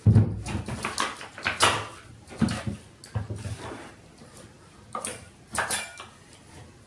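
Irregular knocks and clatters of loose tile and plasterboard pieces being pulled off a shower wall and handled, about seven in all, the loudest right at the start.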